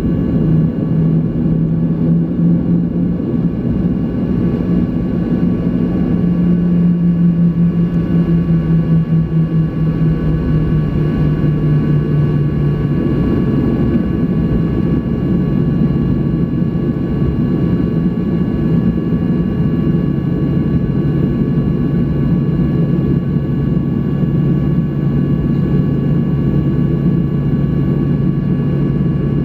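Cabin noise of a Boeing 737-800 at takeoff: its CFM56 jet engines and rushing air give a loud, steady low rumble, with a hum that steps down in pitch about 13 seconds in.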